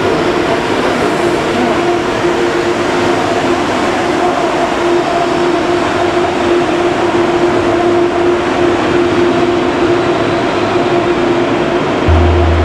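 A train moving along the platform: steady rolling noise with a steady electric hum from the train.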